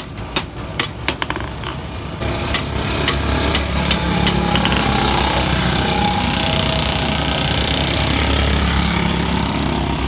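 Hammer blows on metal, a quick irregular run of strikes over the first two seconds or so, giving way to a steady mechanical running noise with a low hum from about four seconds in.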